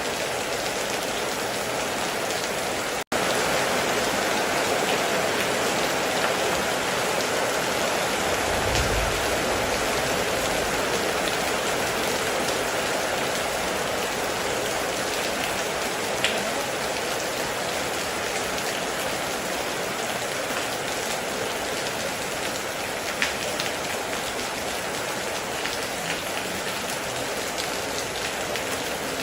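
Heavy rain pouring steadily, with a few louder single drop ticks. About three seconds in it cuts out for an instant, and a brief low rumble comes around nine seconds in.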